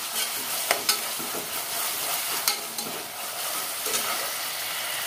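Onions and ginger-garlic paste sizzling in hot oil in a pressure cooker while being stirred, the perforated steel spoon scraping and clicking against the pot now and then.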